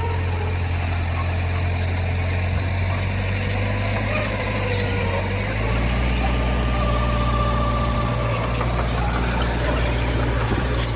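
Heavy diesel engine of earthmoving machinery running steadily, its low note changing about five and a half seconds in, with a faint wavering whine above it.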